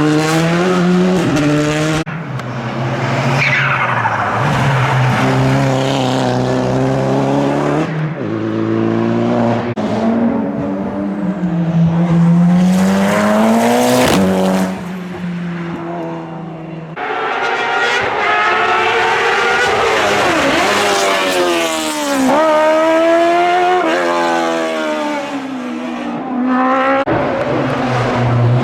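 Rally cars at full throttle, one after another, on a hill climb, engines revving hard and dropping back through the gears with a rising and falling pitch. The sound changes abruptly every few seconds from one car to the next.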